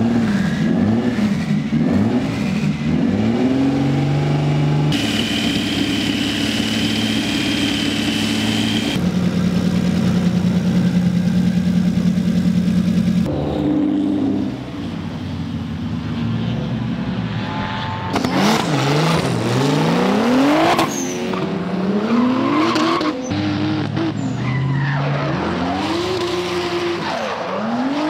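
Drift car's twin-turbo 3.8-litre V6 (a Hyundai Genesis Coupe engine swapped into a Nissan G35 coupe) revving hard, the pitch rising and falling quickly as the car slides. The engine holds steady high revs for several seconds in the middle, with tyres squealing over it.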